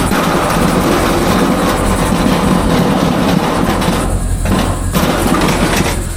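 A vehicle running with a loud, rough rattling rumble over a steady low engine hum; the rattle breaks off briefly twice about four seconds in.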